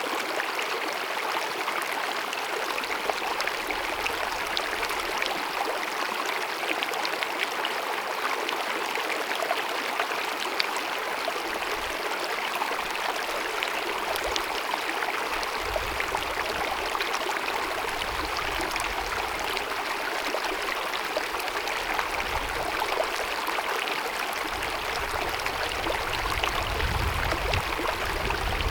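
Small glacier-fed mountain meadow stream babbling over rocks: a steady, even rush of running water.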